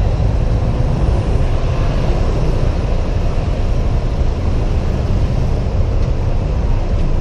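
Steady rumble of wind and road noise on a helmet camera during a ride on a Honda PCX 125 scooter, with no distinct events.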